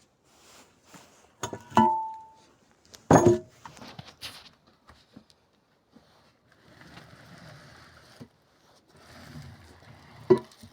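Loose metal engine parts being handled and set down: a few sharp metallic clanks, the ones about two and three seconds in ringing briefly, another near the end, with quieter rustling and shuffling between.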